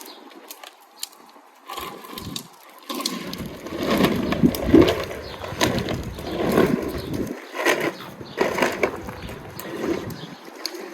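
Wind buffeting the microphone in uneven gusts, a low rumble that swells and drops, with scattered light clicks.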